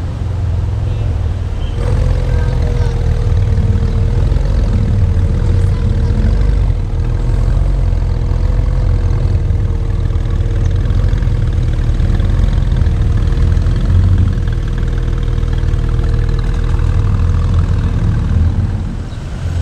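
Air-cooled flat-six of a 993-generation Porsche 911 idling steadily: a low rumble with a steady whine over it that comes in about two seconds in.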